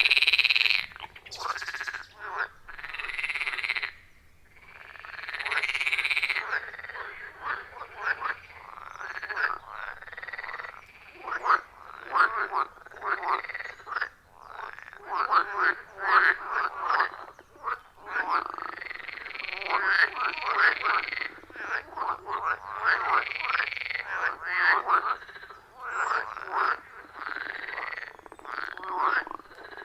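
Chorus of many frogs calling at a pond: dense, overlapping croaks repeating throughout, with a brief lull about four seconds in before the chorus builds back up.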